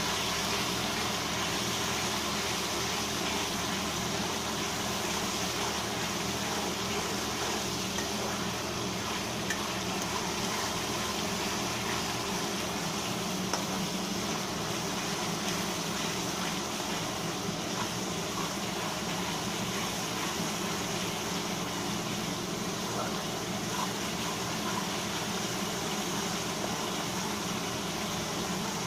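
Onion-and-spice masala paste frying in oil in a steel kadai: a steady sizzle and bubbling, with a few light clicks of the spatula against the pan.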